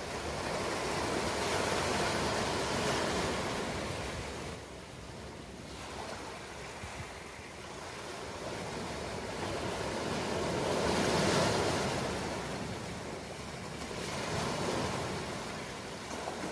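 Ocean surf: waves breaking and washing in, the noise swelling and ebbing in slow surges, with the loudest swell about two-thirds of the way through.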